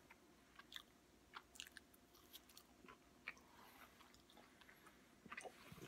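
Faint chewing of a bite of grilled flank steak: a string of soft, irregular little clicks from the mouth.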